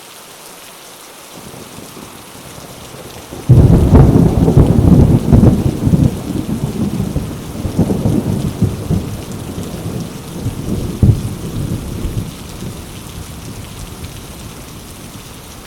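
Heavy rain falling on mango leaves with a steady hiss. About three and a half seconds in, a loud clap of thunder breaks in and rolls on for several seconds, dying away with a last crack near eleven seconds.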